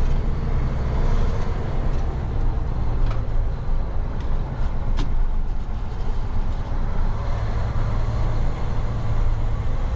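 Steady low rumble of a truck's engine and road noise heard from inside the cab, with one sharp click about halfway through.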